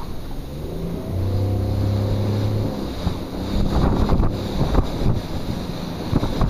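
Motorboat engine running with its pitch shifting, under wind buffeting the microphone and water splashing against the hull.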